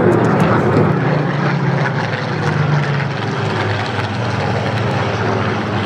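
Supermarine Spitfire piston aero engines droning steadily as the fighters fly past.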